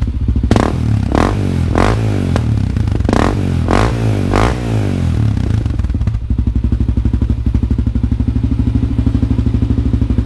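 1999 Honda 400EX's single-cylinder four-stroke engine through an FMF Q4 slip-on muffler with the spark arrestor removed: six quick cracks of the throttle in the first four and a half seconds, then it settles to a steady, lumpy idle.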